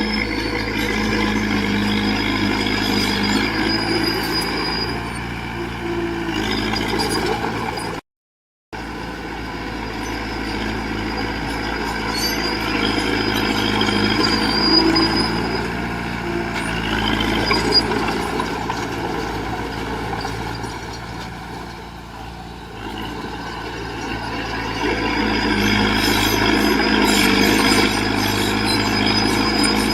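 Heavy diesel engine of earthmoving machinery running under changing load, swelling and easing every few seconds, with thin high squeals over it. The sound drops out completely for under a second about eight seconds in.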